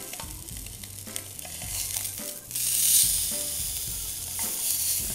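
Tuna loin searing in a very hot oiled pan: a steady sizzle that swells louder about two and a half seconds in, as tongs turn the block onto another side.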